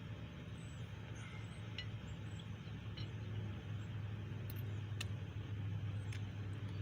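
Steady low hum and background noise, with a few faint short clicks or clinks.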